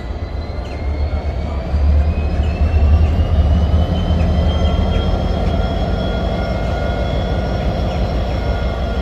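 Diesel locomotive EGM 974 running under load as it hauls a train. There is a heavy, steady low rumble that grows louder about two seconds in, and a faint whine that slowly rises in pitch as the train gathers speed.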